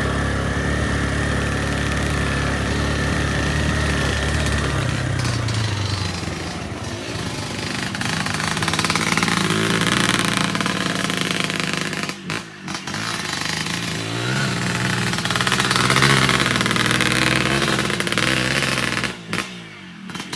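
Motorcycle engine running, steady at first, then revving up and down repeatedly, with two brief drops in level near the middle and near the end.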